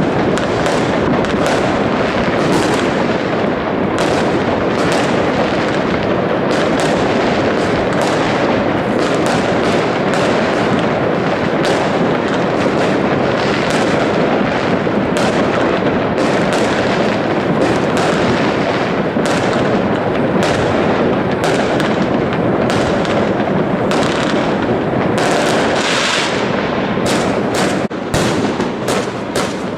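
Fireworks going off in a dense, unbroken barrage: many overlapping bangs and crackles, with a brief dip in the din near the end.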